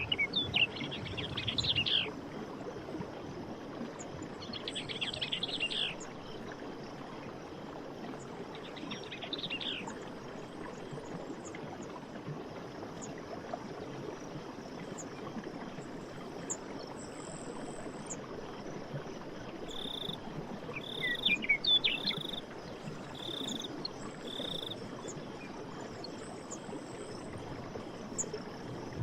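Running water with birds calling over it: three buzzy trills in the first ten seconds, then, about twenty seconds in, a run of five short even notes mixed with quick chirps.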